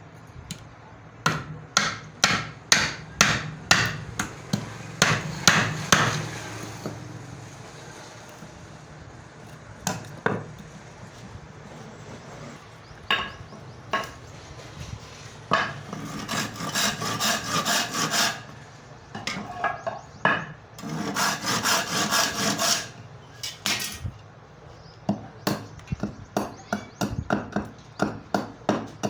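Hammer striking wood in runs of repeated blows, with short pauses between the runs and a few quick, dense flurries of blows near the middle.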